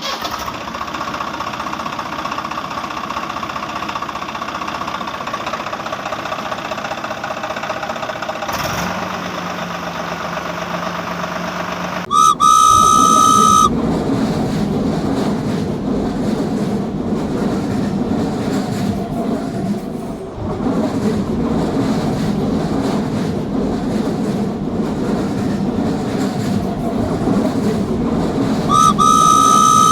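Train sound effects: a steady hum, then a high train whistle blast about twelve seconds in, followed by the continuous rumble and clatter of a passing train, with a second whistle blast near the end.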